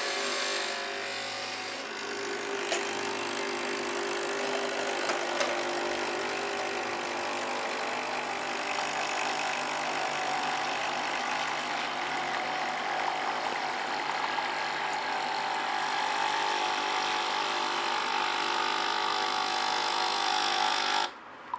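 Nespresso Pixie's pump running steadily as it pushes water through the empty brew chamber in a cleaning rinse, then cutting off abruptly near the end.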